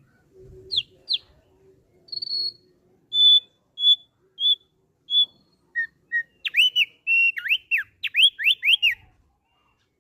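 Thick-billed white-eye (opior paruh tebal) singing. First come two quick down-slurred notes, then a row of clear whistled notes about half a second apart, then a faster run of sweeping notes near the end, which is the loudest part.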